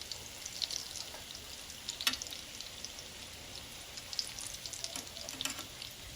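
Sardine fritters frying in olive oil in a pan: a steady sizzle with scattered crackles and pops, one sharper pop about two seconds in.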